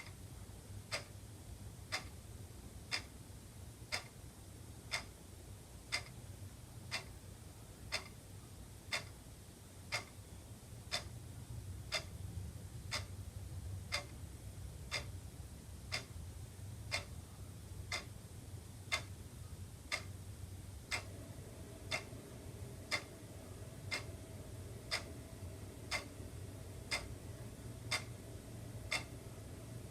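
Wall clock ticking steadily once a second, each tick a sharp click, over a faint low hum.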